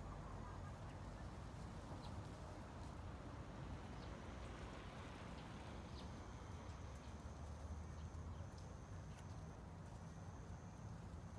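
Faint, steady ambient background noise with a low rumble. There are a few faint scattered clicks, and a thin high steady tone comes in about six seconds in.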